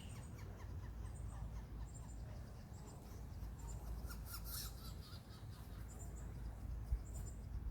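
Faint, short, high-pitched bird chirps repeating about once a second over a low outdoor rumble.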